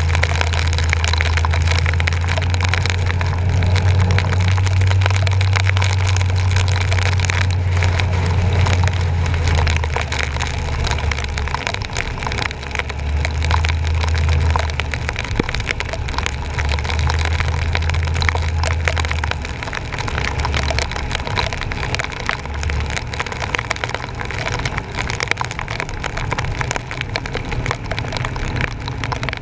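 Rain and splashing water crackling against a bumper-mounted action camera's housing as a truck drives through floodwater, over a low engine drone that holds steady for about ten seconds, then comes and goes and fades out a little past the middle.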